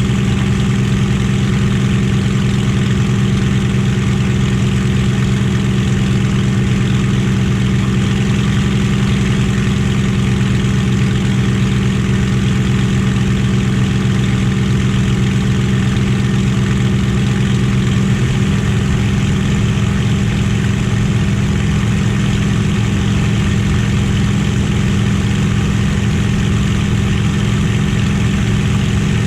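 Merlin V12 piston aero engine of a warbird fighter running steadily at constant power, one even drone that holds its level, with a slight shift in the note about two-thirds of the way through.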